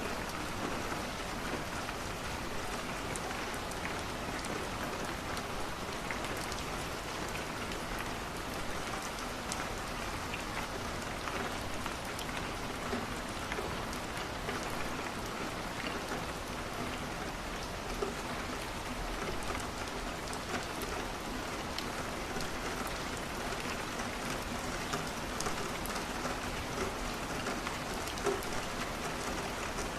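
Steady rain on a window: a continuous even hiss with scattered small sharp ticks.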